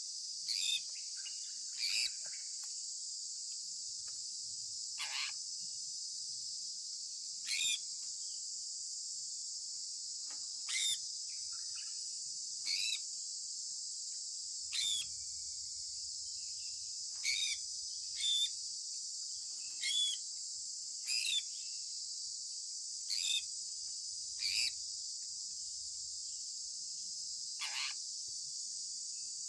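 Sun conure giving short, shrill chirps every one to three seconds, each dropping in pitch, over a steady high hiss.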